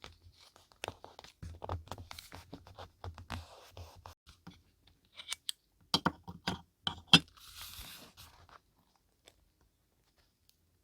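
Paper being handled for scrapbooking: irregular rustling, crinkling and sharp taps of paper and craft materials, stopping about three-quarters of the way through.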